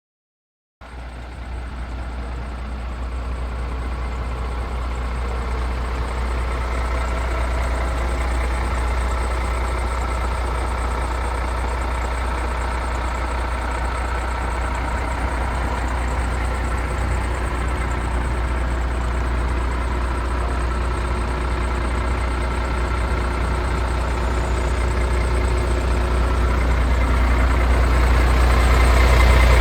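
MAN TGX 26.470 truck's 470 bhp Euro 6 six-cylinder diesel engine idling steadily, with a strong low rumble; it cuts in about a second in and grows slowly louder toward the end.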